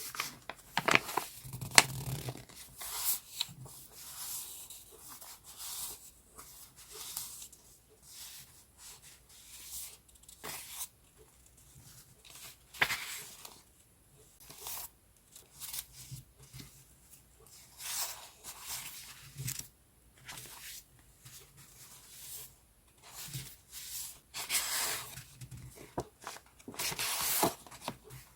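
Sheets of paper and paper scrapbooking items being handled, rustling and crinkling in short, irregular bursts, with a few sharp clicks and taps.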